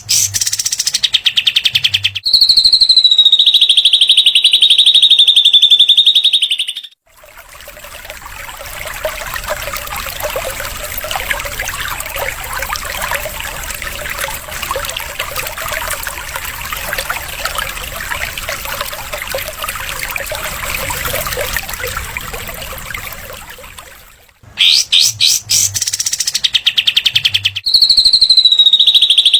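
Recorded song of cililin and kapas tembak (katem) songbirds: fast, high buzzing trills, the rattling 'besetan' phrases, at the start and again near the end. A long stretch of dense, busy twittering fills the middle.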